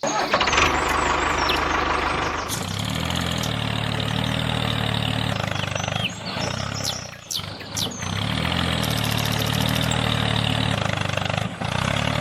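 An engine running steadily at a low idle. It dips and falters briefly about six to eight seconds in, then picks up again.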